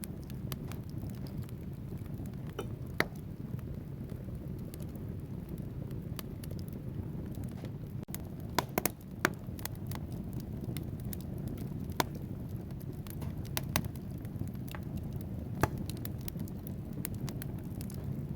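Wood fire burning in a fireplace: a steady low rush of flame with scattered crackles and a few sharp pops from the logs, several of them close together a little before halfway.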